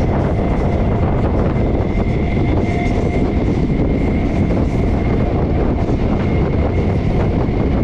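Passenger train running steadily at speed, heard through an open window: a continuous rumble of wheels on the rails, with a faint high whine held throughout.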